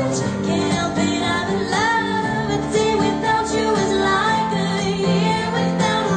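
Pop song playing: a woman singing over sustained synth chords and a steady beat.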